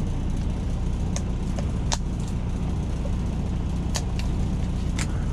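Semi truck's diesel engine idling with a steady low hum, and four sharp clicks or taps spread through it.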